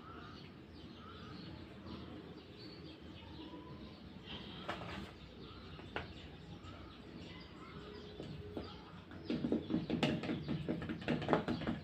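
Faint bird chirps, short calls repeated every second or so. From about nine seconds in, a louder, rapid run of knocks and scrapes comes in.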